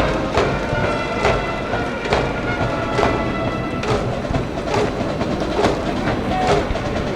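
A school cheering band of brass and drums playing a cheer tune, with a steady drum beat a little under once a second under sustained horn notes.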